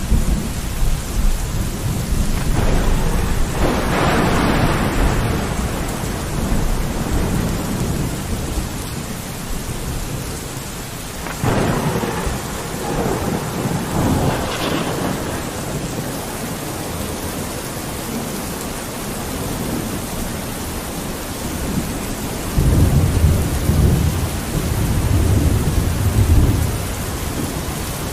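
Steady rain falling on a window, with thunder rumbling several times: swells about 4 and 12 seconds in and a long, low rumble near the end.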